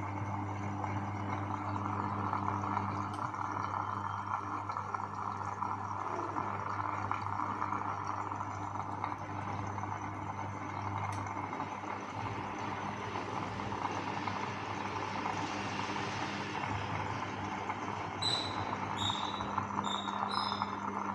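Siemens front-load washing machine running a spin-mode test: a steady motor hum with drum whir that swells in the middle. Near the end, a run of short high beeps.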